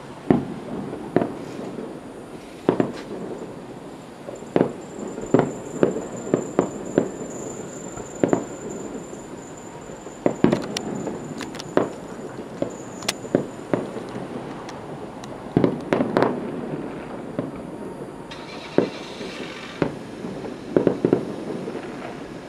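Aerial firework shells bursting at a distance: a long irregular series of sharp booms, about one a second, each with a short echo trailing after it.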